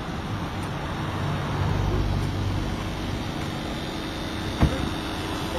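A motor vehicle's engine running steadily with a low hum, and one sharp knock about four and a half seconds in.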